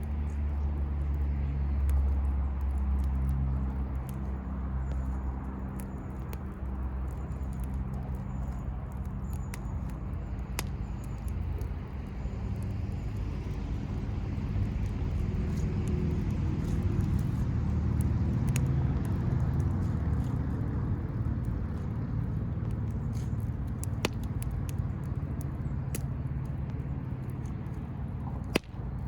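Wood bonfire burning, with occasional sharp crackles and pops from the firewood over a steady low rumble.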